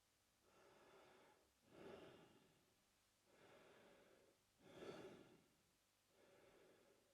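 A man breathing slowly through his open mouth, about one breath every three seconds, a softer breath and a louder one in turn.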